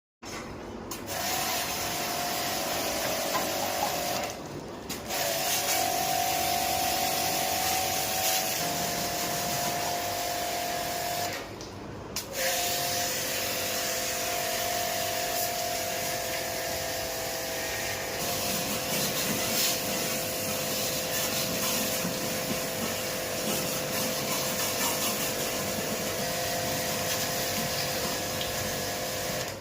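Electric pressure washer running and jetting water onto an air conditioner's outdoor unit: a steady spray hiss over a motor whine. It breaks off twice, briefly, about four seconds in and again near twelve seconds.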